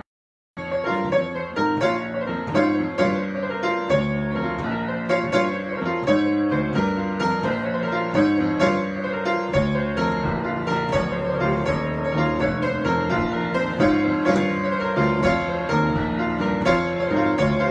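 Solo piano improvisation: a steady, busy stream of notes and chords. It begins after a half-second gap of silence at the start.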